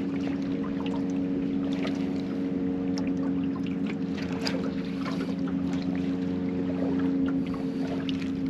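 A boat motor running with a steady, even hum, with scattered light clicks over it.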